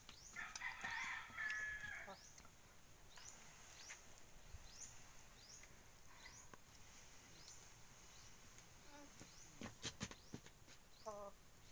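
Faint rural bird sounds: a harsh, raspy call in the first two seconds, and a short high chirp repeating about every two-thirds of a second throughout. A few sharp clicks come near the end.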